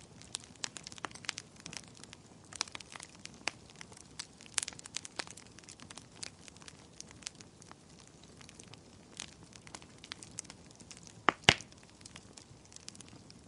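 Wood fire crackling in a fireplace: a steady low hiss with many irregular small snaps. Two loud pops come in quick succession a few seconds before the end.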